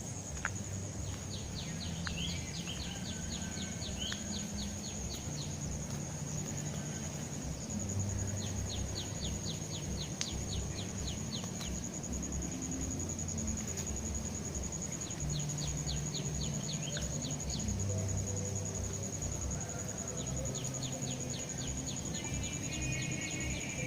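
Outdoor insect chorus: a steady high-pitched insect whine runs throughout. About every five or six seconds comes a two-to-four-second trill of rapid chirping ticks, about ten a second, all over a low hum.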